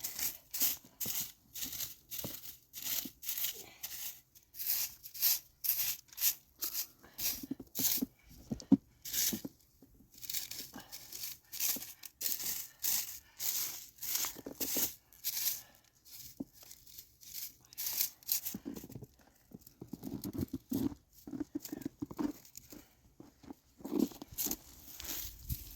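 Footsteps crunching in snow at a steady walking pace of about two steps a second, with a few short pauses.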